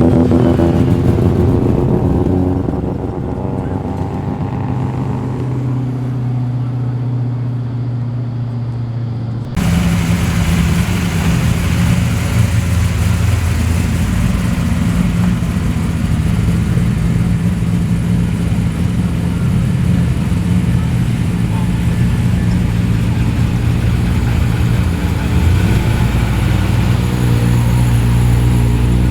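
Car engines running at low speed as cars roll slowly past, a steady low rumble. About ten seconds in the sound cuts abruptly to another, louder engine rumble at a different pitch.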